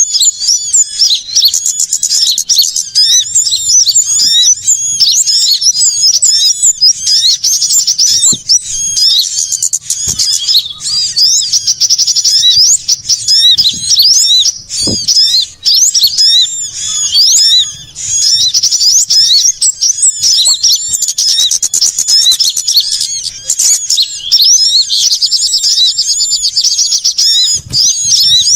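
Bird-lure recording of many small songbirds calling noisily at once: dense, overlapping, rapid high-pitched chirps and trills with no let-up. A few brief soft thumps sound under it.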